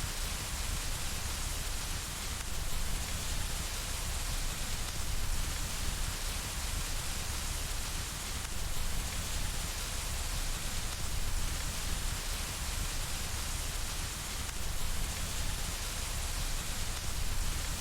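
Steady rain falling against window glass: a continuous, even hiss with a low rumble underneath.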